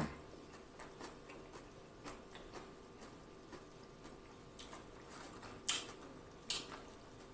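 Faint close-up mouth sounds of chewing nacho chips with the mouth closed: soft, scattered wet clicks, with a few sharper clicks about two-thirds of the way through.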